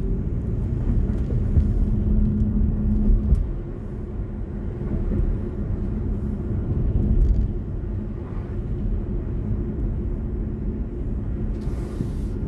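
BMW i4 M50 electric car driving, a steady low rumble of tyres on the road.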